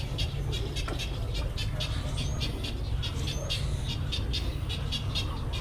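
Rookery of nesting egrets and herons: a rapid, continuous run of short high chirps and clicks from birds, about four or five a second, over a steady low rumble.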